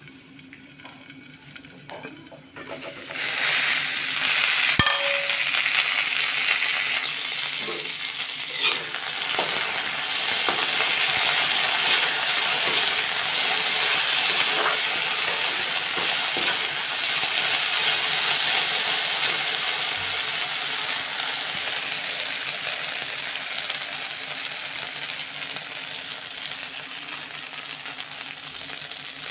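Potato sticks sizzling in hot oil in an aluminium kadhai, stirred and scraped with a metal slotted spoon, with scattered clinks of the spoon against the pan. The sizzling starts suddenly about three seconds in and slowly weakens toward the end.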